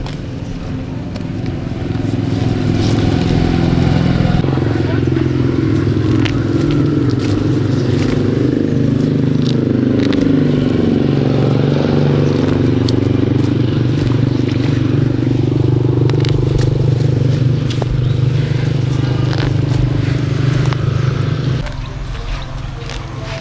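An engine running steadily; its pitch dips and climbs back around the middle, and it falls away about 21 seconds in.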